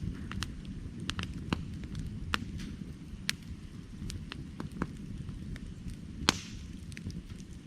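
Firewood burning: irregular sharp crackles and pops over a steady low rumble of the fire, with one loud pop about six seconds in.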